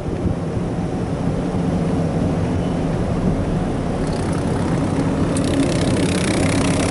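Ryko Softgloss Maxx 5 automatic car wash running, heard from inside the car's cabin: a steady machine hum under a hiss of water spray. The spray hiss grows louder and brighter about five seconds in as it hits the body.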